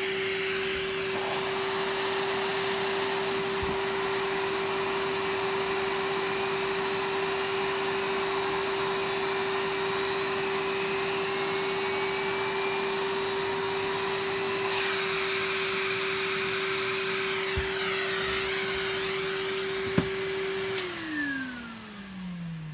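Vacuum cleaner motor running with a steady whine and rush of air, then switched off near the end, its pitch falling as it winds down. A sharp click comes just before it stops.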